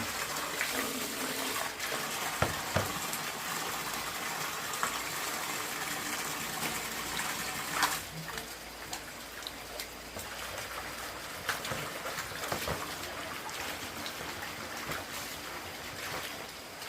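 Running water, a steady hiss with scattered small clicks and splashes. It turns quieter about eight seconds in.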